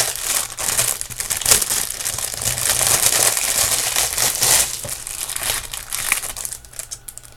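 Crinkly packaging being handled and opened: a dense run of crackling and sharp rustles that thins out near the end.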